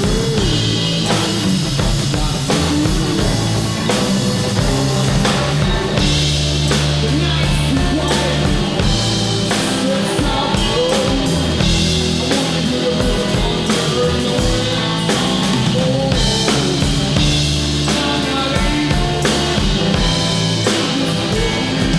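Live band playing a blues-rock song, driven by a steady drum-kit beat and bass.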